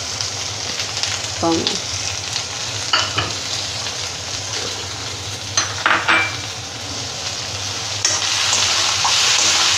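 Chopped vegetables sizzling in hot oil in a kadai, with a few light knocks. The sizzle grows louder about eight seconds in as chopped tomato goes into the oil.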